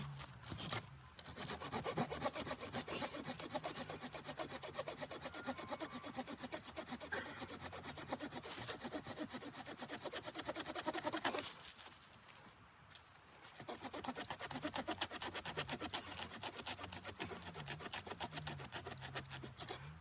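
Hand saw cutting wood in quick back-and-forth strokes, stopping for a moment about twelve seconds in and then starting again.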